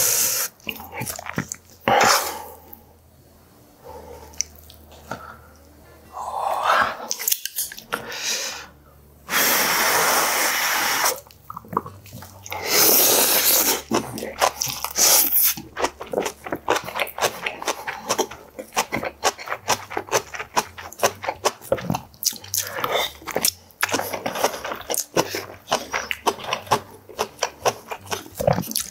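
Close-miked chewing of a mouthful of rice and food: wet smacks and clicks that become fast and steady through the second half. Two long, noisy breaths come near the middle.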